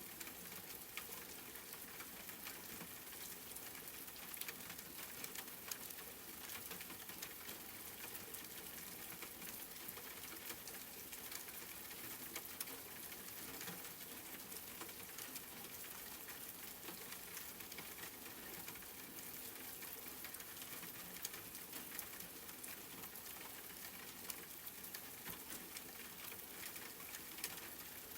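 Steady rain falling, an even hiss with many fine drop ticks and the odd louder drip.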